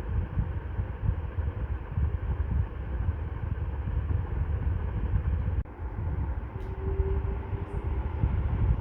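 Ceiling fan running: a steady rush of moving air over a fluctuating low rumble, dipping briefly a little past halfway.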